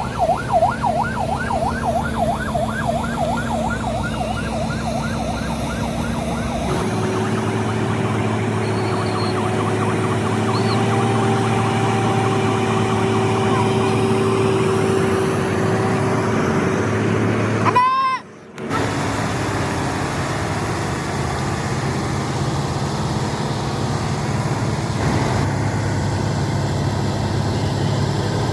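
A siren yelping in a fast up-and-down warble for the first several seconds. After a sudden change it gives way to a steady drone of a heavy vehicle's engine and road noise, briefly cut by a short gap about two-thirds of the way through.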